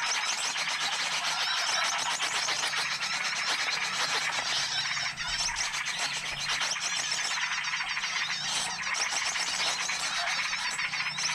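A bird-lure (pikat) recording: a dense, unbroken chorus of many small birds chirping and twittering together, made to draw in wild small birds.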